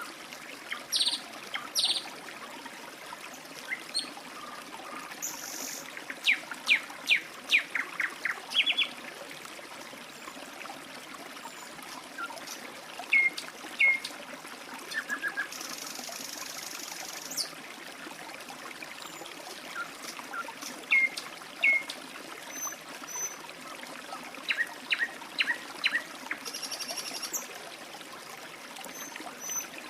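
Water trickling and flowing steadily, like a small stream, with birds chirping now and then in short quick calls.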